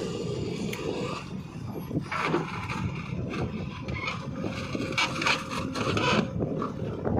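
Heavy diesel farm or earth-moving machinery running steadily, with irregular scraping and rattling over the engine.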